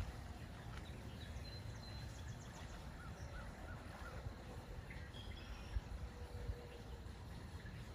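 Faint birdsong, a few short whistles and a quick run of four chirps, over a steady low rumble of wind on the microphone.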